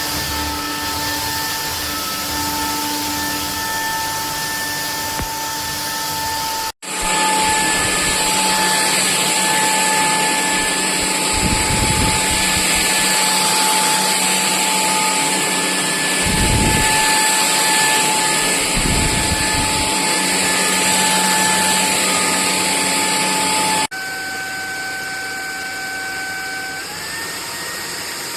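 A cordless stick vacuum's motor running with a steady high whine over a loud rush of air. The sound cuts off abruptly about seven seconds in and comes back louder, then cuts again near the end to a quieter run. Shortly after that the whine steps up in pitch, as the motor changes speed.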